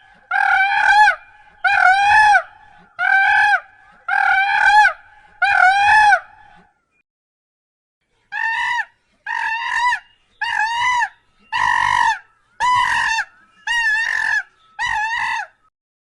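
A bird giving loud, repeated single calls, about one a second, each rising then falling slightly in pitch. After a pause about seven seconds in, a second run of calls follows, a little higher in pitch.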